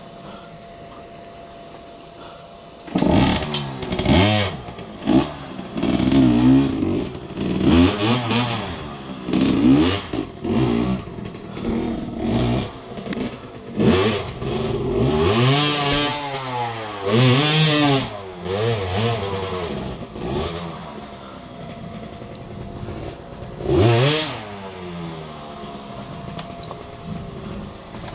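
Enduro dirt-bike engine revving in repeated bursts, its pitch rising and falling with the throttle, with some clatter. It runs low for the first few seconds, revs hard from about three seconds in, settles lower after about twenty seconds, and gives one more rev near the end.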